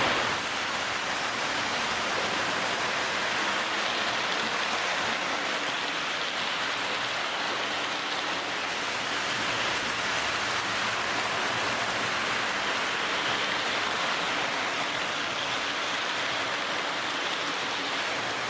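Lionel O gauge MPC-era D&H U36c diesel locomotive running on three-rail track: a steady whirring rush from its Pullmor motor and wheels rolling on the rails.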